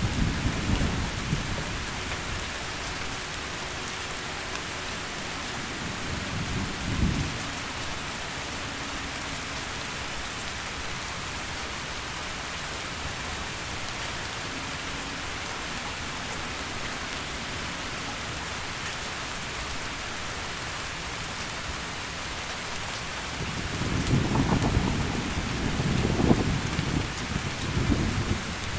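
Heavy rain falling steadily, with thunder: a rumble fading out at the start, a short low rumble about seven seconds in, and a longer rolling rumble that builds over the last five seconds.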